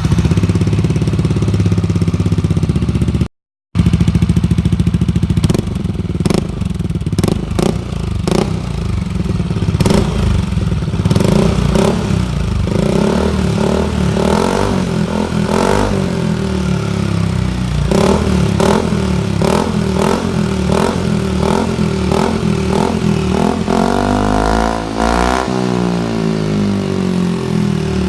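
Yamaha NMax 125 scooter's single-cylinder engine running through a replica exhaust with the dB killer fitted, idling and revved in repeated throttle blips, the pitch rising and falling. The sound drops out for a split second about three seconds in.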